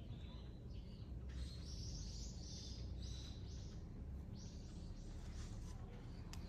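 A bird chirping in two runs of short, high, repeated calls, over a steady low outdoor rumble.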